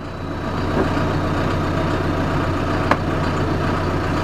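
A tractor's diesel engine running steadily at low speed, a constant low drone, with a single sharp click about three seconds in.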